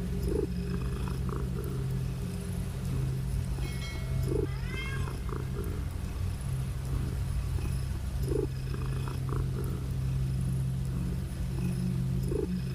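A domestic cat purring steadily, with one short rising meow about four and a half seconds in.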